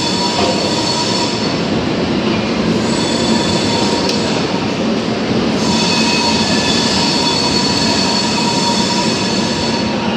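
LHB passenger coaches rolling past a station platform: a steady, loud rumble of wheels on rail with high, drawn-out wheel squeal over it.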